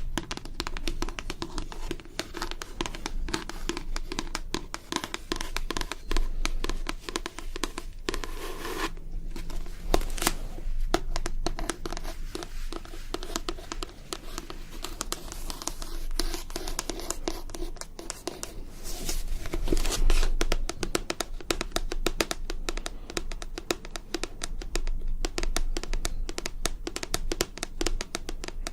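Fast, continuous ASMR tapping and scratching with fingers and nails on objects, a dense run of small clicks with a crinkly edge.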